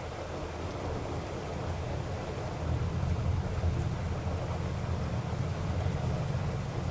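Steady rain with a low rumble of thunder that swells about two and a half seconds in and eases slightly near the end.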